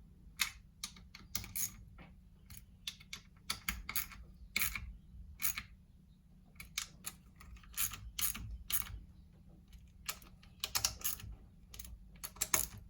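Hand ratchet clicking in irregular short runs as the clutch cover's small M6 bolts are snugged down, over a faint steady hum.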